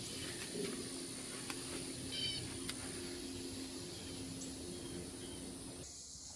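Quiet outdoor background: a faint steady low hum with a few light ticks and one short bird-like chirp about two seconds in, cut off abruptly near the end.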